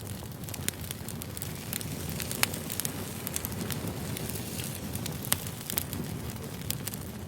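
Campfire burning, with frequent sharp crackles and pops over a steady low rush.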